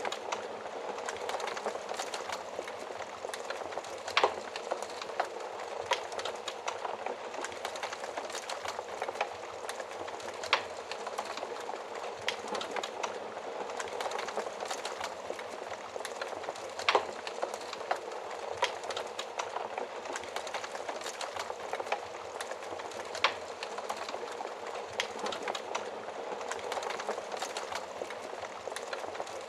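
Wood fire burning in an oven, with a steady hiss of flames and dense crackling, broken by a few louder sharp pops.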